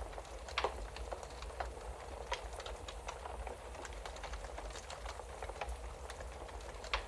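Wood fire crackling in a fireplace: irregular small pops and snaps, with sharper ones about half a second in, a little past two seconds and near the end, over a steady low rumble.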